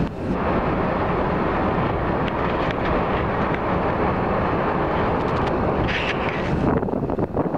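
Steady rumble aboard a car ferry: the ferry's engine running, with wind buffeting the microphone.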